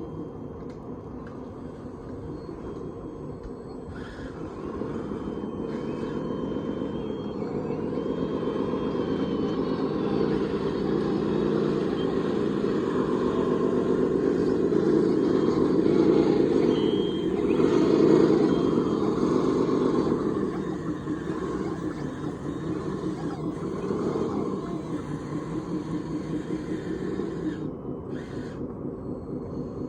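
Radio-controlled construction machine running, a steady mechanical hum that builds to its loudest a little past halfway and then eases off.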